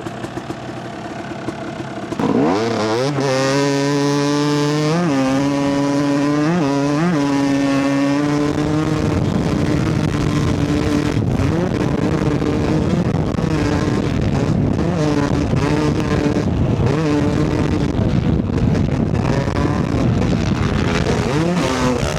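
Two-stroke Yamaha YZ250 dirt bike pulling away hard from idle about two seconds in, its engine revving up and dropping back through several gear changes. It then runs flat out at speed under a heavy rush of wind noise.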